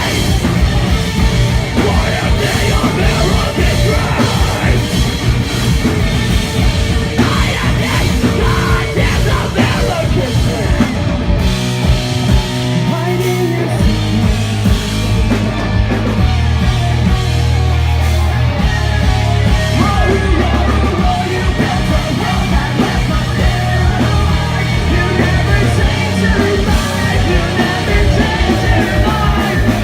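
Live heavy rock band playing loud, with pounding drums, distorted guitars and yelled vocals; the drums drop out for a couple of seconds about twelve seconds in while low bass notes carry on.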